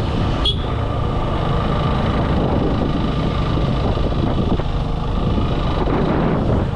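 Motorcycle running on the road, a steady engine and road rumble with no let-up; a brief sharp click cuts in about half a second in.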